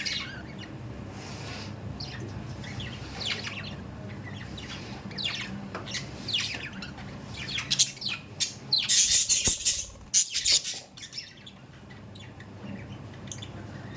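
Budgerigars chirping and squawking in quick, short calls that get busier and louder around the middle, with a few loud harsh bursts.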